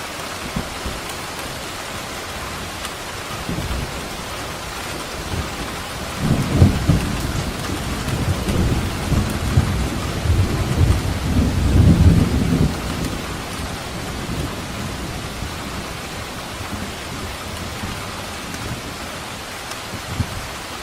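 Steady rain falling, with a roll of thunder rumbling low from about six seconds in and fading out after about thirteen seconds.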